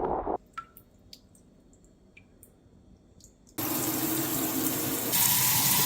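Water running from a tap in two spells: it stops about half a second in and starts again a little past the middle, with a few faint clicks in the quiet gap.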